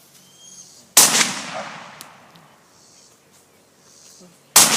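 Two gunshots about three and a half seconds apart, one about a second in and one near the end. Each has a sharp crack followed by a long fading echo.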